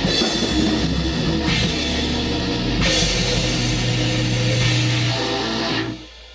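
Black metal band rehearsing loud, drum kit and guitars playing together, then stopping abruptly at the end of a passage about six seconds in.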